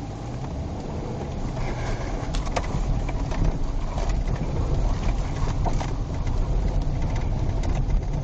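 Steady engine and road rumble of a car being driven, heard from inside, growing a little louder about three seconds in.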